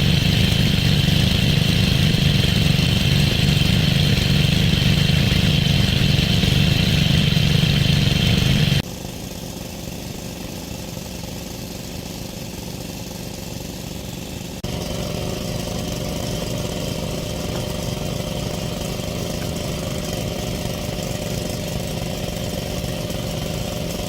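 A small engine running steadily at an even speed. Its sound drops abruptly about nine seconds in and rises again at about fifteen seconds.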